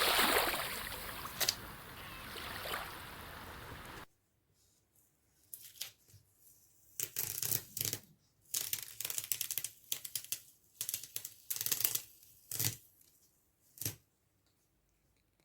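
Palette knife scraping and dabbing acrylic paint on canvas in short separate strokes, about a dozen of them. Before that, a steady hiss with a few clicks that cuts off suddenly about four seconds in.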